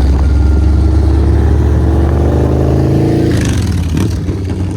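Custom Harley-Davidson with a big-cube built V-twin engine accelerating, its pitch rising steadily for about three seconds. It then breaks into a short burst of noise and dies away.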